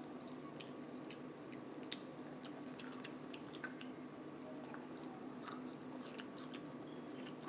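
Close-up chewing and mouth sounds of people eating, with many small irregular clicks and smacks over a steady low hum.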